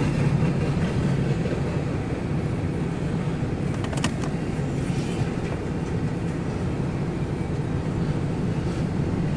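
CSX freight train giving a steady low rumble, with one brief sharp click about four seconds in.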